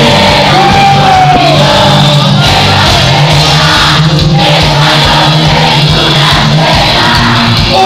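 Live cuarteto band playing loud with a singing voice over a steady beat, with shouts from the crowd.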